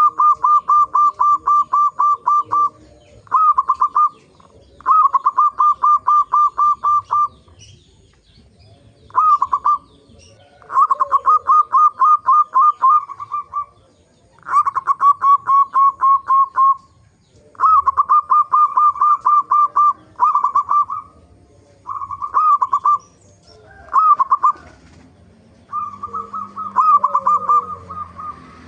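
Zebra dove (perkutut) cooing in loud phrases of rapid, evenly repeated notes. Each phrase lasts one to three seconds, with short pauses between them.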